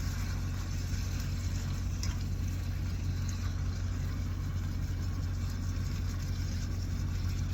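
Truck engine idling: a steady low drone, with a faint click about two seconds in.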